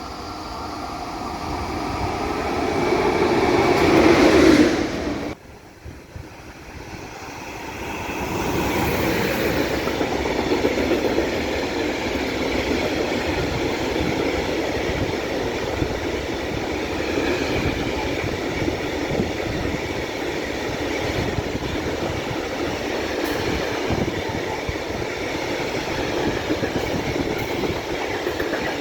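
Passenger train of coaches running past, growing louder to a peak and then cut off abruptly about five seconds in; a train then builds up again and runs steadily past with wheel-on-rail noise to the end.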